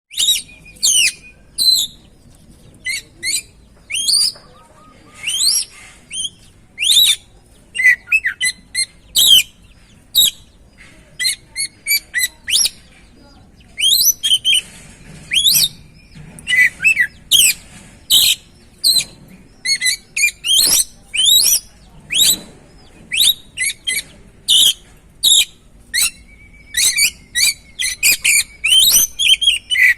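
Oriental magpie-robin (kacer) singing a loud, varied song of sweeping whistles, quick trills and chattering notes, in short phrases with brief pauses between them. It is the kind of lure song played to get a caged kacer singing.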